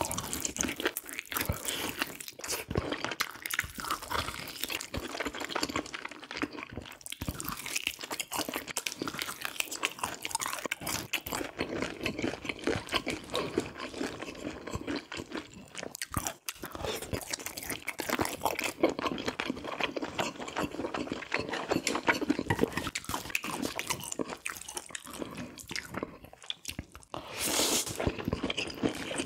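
Close-miked eating sounds: steady chewing and biting with a crunchy, clicky texture.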